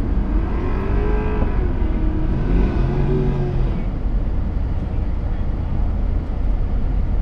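Low, steady car-engine rumble heard from inside a slowly moving car, with an engine revving up and back down twice, about one and three seconds in.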